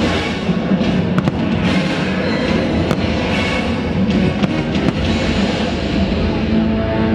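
Fireworks show soundtrack music with drums playing loudly over loudspeakers, with firework bursts cracking through it: a couple of sharp bangs about a second in, one near three seconds and two more between four and five seconds.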